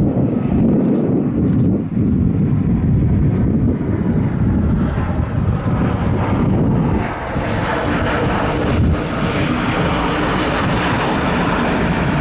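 Boeing 737-800 airliner landing, its CFM56 turbofan engines making loud, steady jet noise. The sound turns brighter and harsher about halfway through as it comes closer.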